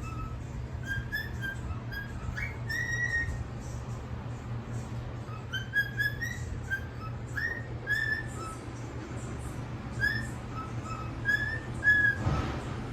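A whistled tune of short, clipped notes, some sliding upward, over a steady low hum. A brief rustling burst comes near the end.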